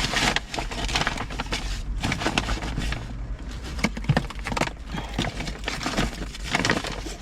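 Rustling, crinkling and clicking of bags and small items being handled and packed away, with many irregular little knocks.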